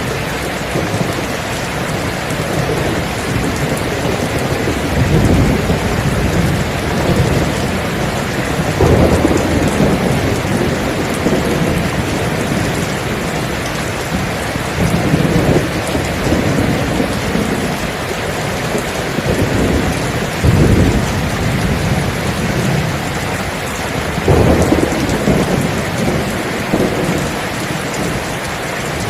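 Steady heavy rain with thunder rumbling again and again, in low swells every few seconds.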